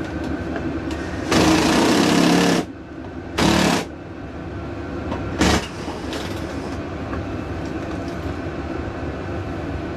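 Cordless electric screwdriver with a Torx bit running in three bursts, undoing panel screws: a long run of over a second, a shorter one, then a brief blip.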